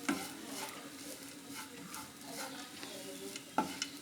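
Spatula stirring and scraping grated coconut as it dry-roasts in a frying pan, with a sharp knock of the spatula against the pan at the start and another near the end.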